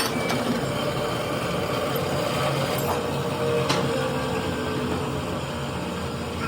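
Steady machine or engine running noise with a low rumble and a held hum, and a few sharp clicks.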